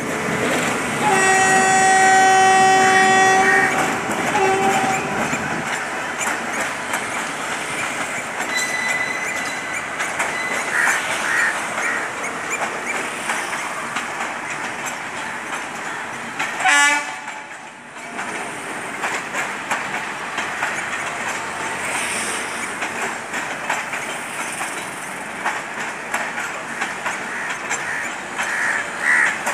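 Train horn blowing one long blast of about three seconds, then a short second blast. It is followed by the steady running noise of a passenger train on the track with clickety-clack from the wheels. About 17 seconds in, a brief loud wavering tone, a wheel squeal or horn, rises over the running noise.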